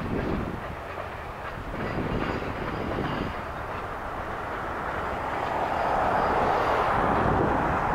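Covered grain hopper cars of a freight train rolling past, a steady rumble of steel wheels on the rails that grows louder in the last few seconds.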